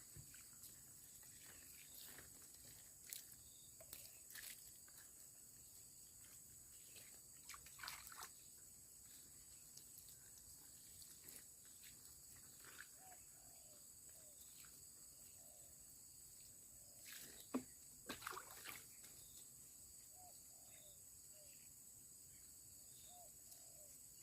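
Faint, steady high-pitched insect chorus, with a few scattered knocks and splashes, the loudest a pair about two-thirds of the way through, and faint short chirps in the second half.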